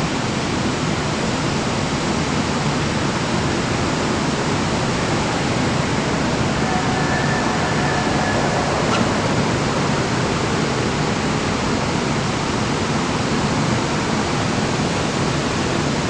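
Strong wind buffeting the microphone: a steady, loud rushing hiss with no clear rise or fall. About halfway through, a faint thin whine sounds briefly beneath it.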